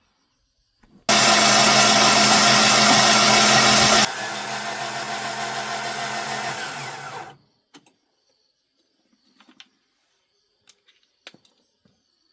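A power tool's motor running loud for about three seconds, then dropping to a lower, steady running level before cutting off a few seconds later. A few faint clicks follow.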